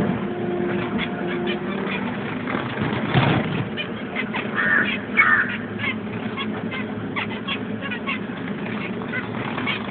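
Pet birds calling, with many short chirps and calls throughout and two louder calls about halfway through.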